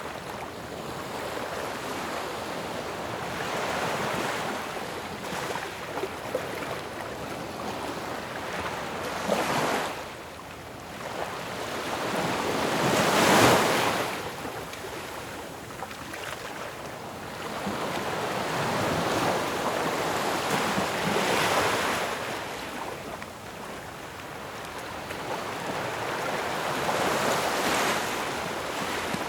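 Ocean waves breaking on a shore: a continuous wash of surf that swells and recedes, each breaker building over a few seconds, with the biggest crash about halfway through.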